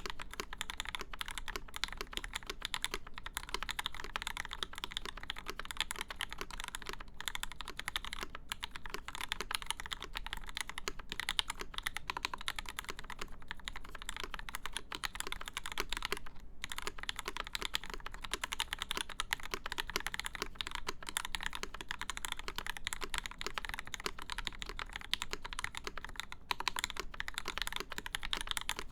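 Continuous fast typing on a CFTKB Discipline v2 mechanical keyboard with lubed Gateron Ink switches, a full aluminum plate and an acrylic case: a dense stream of key clacks with a few brief pauses.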